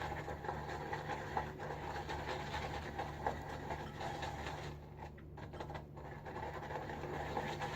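Boar-bristle shaving brush swirling soap in a bowl to build lather: a steady, soft scratchy swishing.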